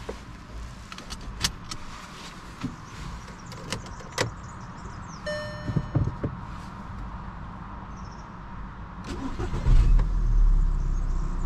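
Seatbelt buckling with a few sharp clicks, and a short electronic beep from the dashboard about five seconds in. Near the end the Volkswagen Golf V's 1.6 FSI naturally aspirated four-cylinder petrol engine starts with a surge and settles into a steady low idle, heard from inside the cabin.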